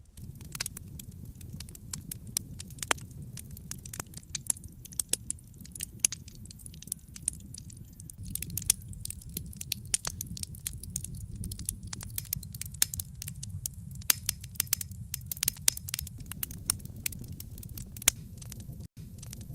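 Wood fire burning in a fireplace: irregular sharp crackles and pops over a steady low rumble of the flames, with a momentary dropout near the end.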